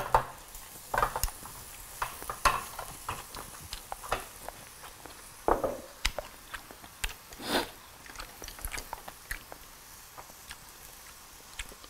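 Close-up eating noises: chewing and biting on grilled pork chop and rice, with scattered clicks of tongs and chopsticks against the grill and plates. A faint sizzle comes from the pork chops on the tabletop grill.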